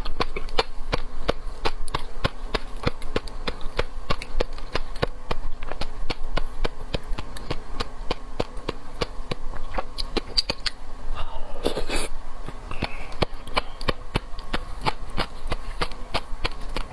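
Close-miked mouth sounds of a person eating seafood: a steady run of sharp, wet clicks and smacks from chewing, several a second, with a brief vocal sound about twelve seconds in.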